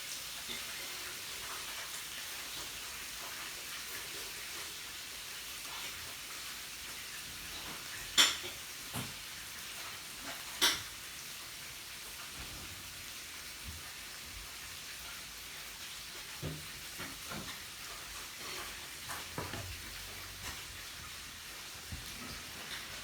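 Meat sizzling on a yakiniku grill, a steady high hiss, with two sharp clicks about eight and ten and a half seconds in and a few soft low knocks later on.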